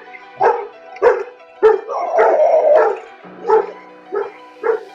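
A dog barking repeatedly, about two barks a second, with one longer drawn-out bark near the middle, over background music.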